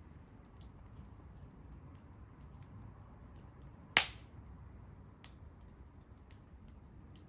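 Wood bonfire crackling with scattered faint ticks over a low steady noise, and one sharp, loud pop about four seconds in.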